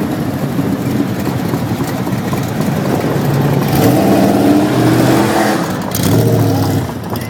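Car engines running, with one revving and growing louder through the middle before easing off.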